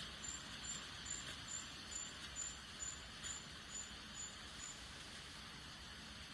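A faint steady hiss with a run of about a dozen short, high chirps, two or three a second, that stop about three-quarters of the way through.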